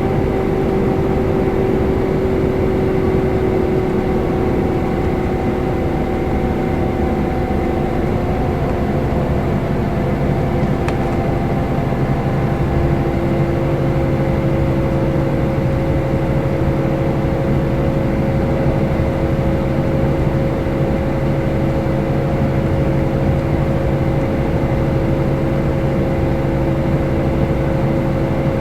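Scania K320 IB coach driving along, its engine and drivetrain giving a steady drone over road noise. About nine seconds in, the engine note shifts and a deeper hum comes in.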